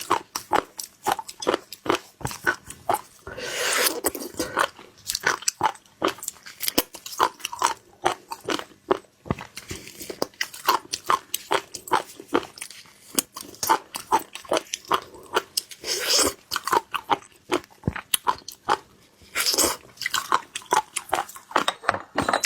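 Close-miked chewing of seafood: a dense run of small wet crunches and clicks as shellfish is bitten and chewed, with three longer, louder noisy stretches about 4, 16 and 20 seconds in.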